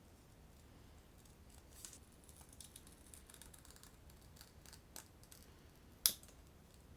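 Scissors snipping, a series of light scratchy cuts, with a sharp click about six seconds in.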